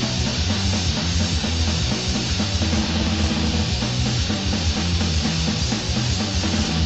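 Loud, dense crust punk music with distorted guitars and drums playing without a break.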